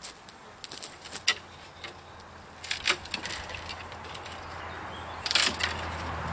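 An anvil lopper (TABOR TOOLS GG12A) cutting through branches among rustling twigs and leaves: scattered light clicks, a sharp snap about three seconds in, and a louder crackle a little after five seconds.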